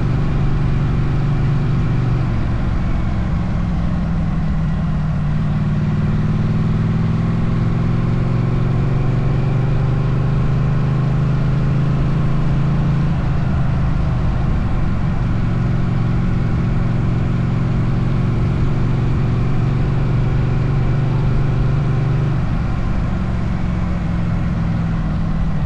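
Motorcycle engine running steadily on the road, its note shifting a few times with changes of speed or gear, over constant wind rumble on the onboard microphone.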